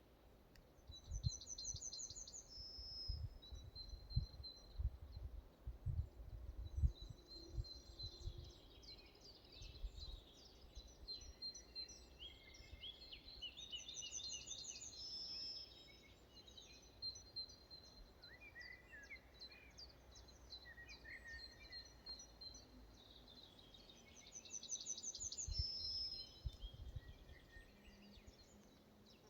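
Forest birdsong, several birds singing. One bird repeats the same short trilled phrase three times, about twelve seconds apart. Low rumbles come through in the first few seconds and again near the end.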